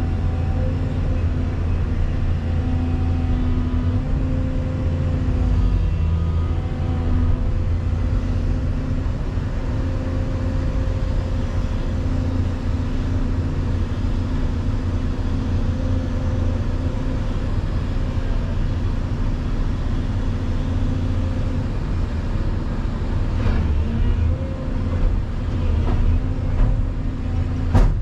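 Volvo EC220EL excavator's diesel engine running steadily with a constant low hum, with a few sharp knocks near the end.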